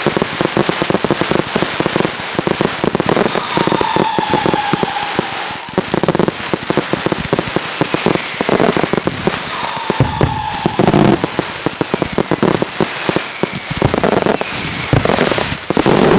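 Fireworks barrage: a dense, continuous rattle of crackling reports and bangs, with several whistles falling in pitch cutting through it.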